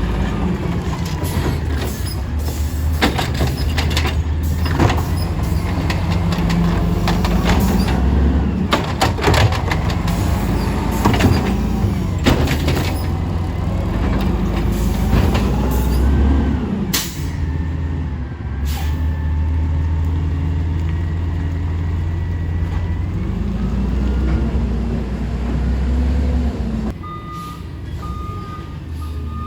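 Small automated side-loader garbage truck at work: its diesel engine revs up and down as the hydraulic arm cycles, with repeated bangs and clatters of bins and trash. An air-brake hiss comes a little past halfway, and a reversing beeper starts near the end.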